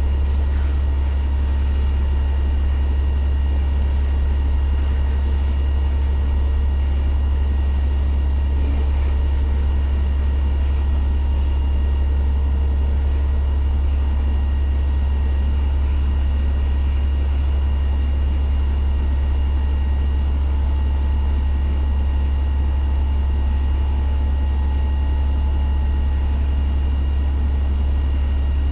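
Steady low drone of a fire engine's engine running while parked, heard from inside the cab, with no change in pitch or level.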